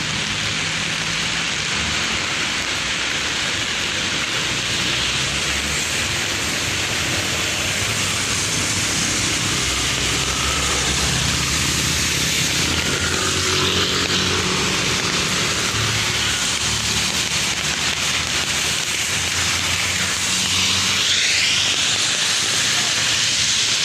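Heavy rain falling steadily, with motor vehicles running on the wet street beneath it; a vehicle grows louder about twenty seconds in.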